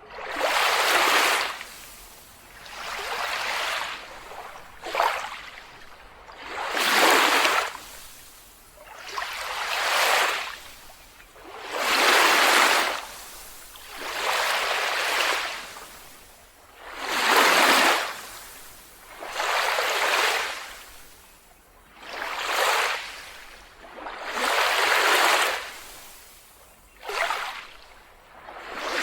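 Small waves washing onto a beach, a swell of surf noise about every two seconds that rises and falls away.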